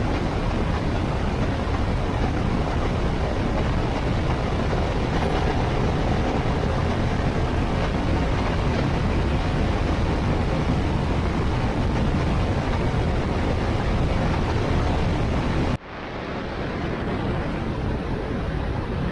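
Steady rush of wind and road noise on a Honda Africa Twin motorcycle running at speed, with no clear engine note standing out. It drops away suddenly about sixteen seconds in and swells back up over a couple of seconds.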